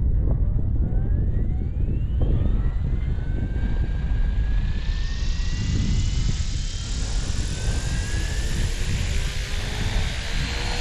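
Electric SAB Goblin 380 model helicopter spooling up: the motor's whine rises steadily in pitch over the first few seconds, then the rotor's rush grows louder and holds at flying speed. Wind buffets the microphone throughout.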